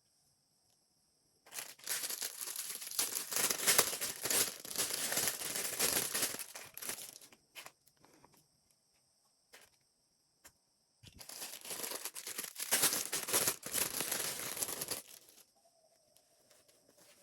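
Packaging being crinkled and torn open in two long spells of dense crackling, with a few lone clicks in the pause between them.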